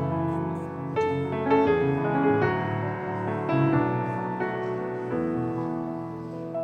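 Piano playing the instrumental introduction to a Christian hymn, a melody of separate notes over sustained chords.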